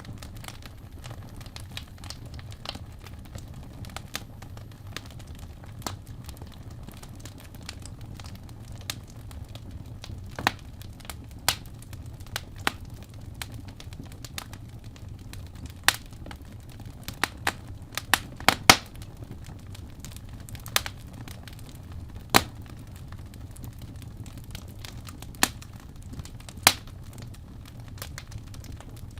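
Wood fire burning in a fireplace: irregular sharp crackles and pops over a steady low rumble of the flames, with a cluster of louder pops a little past the middle.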